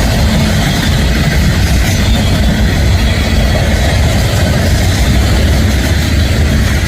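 Union Pacific manifest freight train rolling past at close range: freight cars running on the rails with a loud, steady low rumble.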